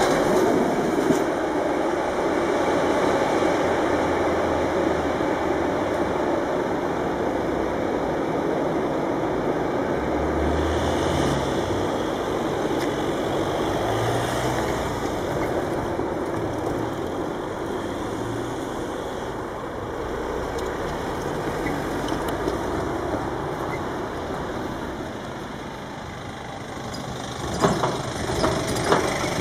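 A long container freight train rolling away over the rails, its wagons giving a steady rumble that slowly fades. Near the end, a few knocks as a car drives onto the level crossing.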